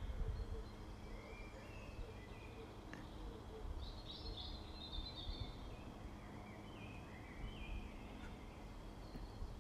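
Scattered bird calls and chirps, the clearest a few seconds in, over a steady low rumble.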